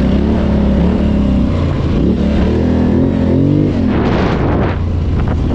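ATV engine running, with its pitch rising and falling through a couple of revs about halfway through. A rushing noise comes up near the end.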